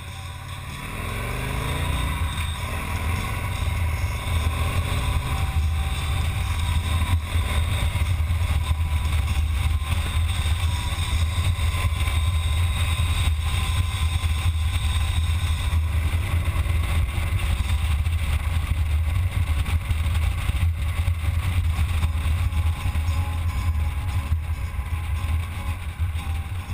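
Motorcycle engine rising in pitch as it accelerates over the first couple of seconds, then running steadily under way.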